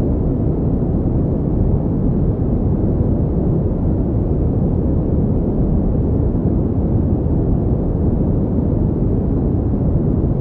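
Steady pink noise: a constant, deep rushing hiss, heaviest in the low pitches, with no changes or events.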